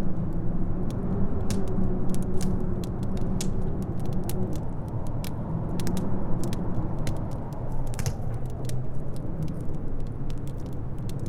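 Wood fire crackling, with irregular sharp pops and snaps, over a steady low rumble of howling wind.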